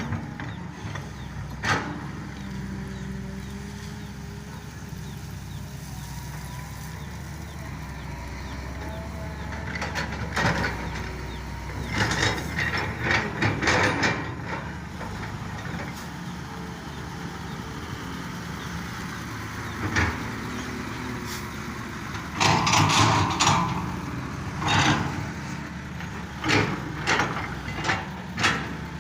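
Excavator and truck engines running steadily, broken several times by loud clattering bursts of rock being scooped and dropped.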